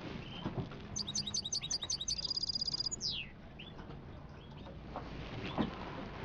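A songbird singing: a quick run of repeated high notes, then a fast even trill, ending in a falling note about three seconds in. A few faint chirps follow.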